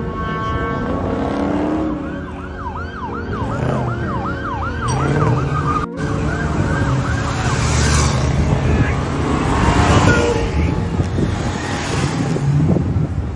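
An emergency vehicle's siren on a fast yelp, quick rising-and-falling whoops about two or three a second, breaking off suddenly about six seconds in. After that comes a rush of road and traffic noise that swells twice.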